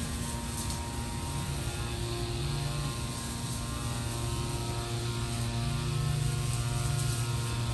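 Steady mechanical hum, with a strong low drone and several steady tones above it, growing slightly louder near the end.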